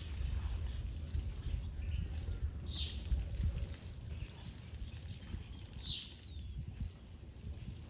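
Birds chirping in short high calls, with the two clearest about three and six seconds in, over a steady low rumbling noise.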